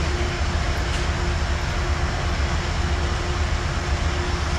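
A train running steadily: a constant low rumble with a steady humming tone over it.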